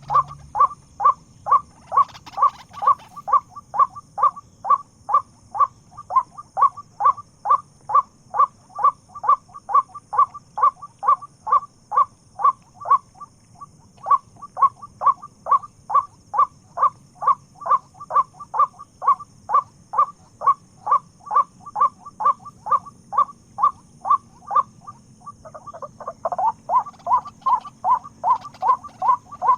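White-breasted waterhen (burung keruak) calling: one short note repeated monotonously about twice a second, with a brief pause about halfway through. Near the end the calling turns denser and more jumbled.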